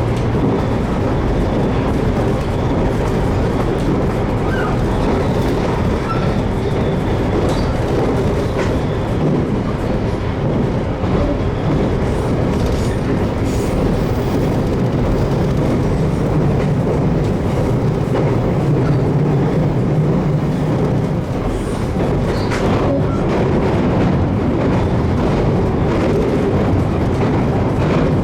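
Running noise of a JR Kyushu 813 series electric train cruising between stations, heard from inside the passenger car: a steady rumble of wheels on rail, with a low hum that drifts slightly in pitch.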